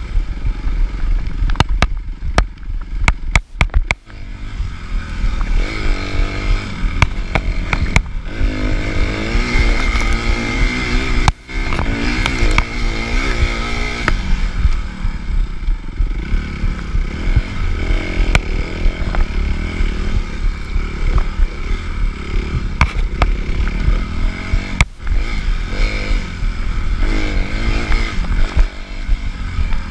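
Suzuki RM-Z250 four-stroke single-cylinder dirt bike engine running hard, its pitch rising and falling as the throttle is worked, with frequent knocks and clatters from the bike over rough ground. The engine note drops away briefly three times.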